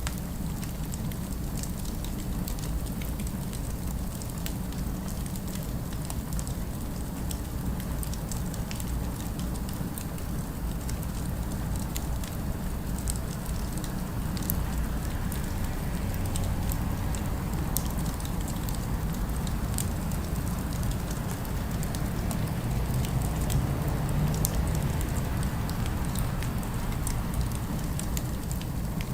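Fireplace crackling: a stream of small scattered pops and snaps over a steady low rumble of distant city ambience.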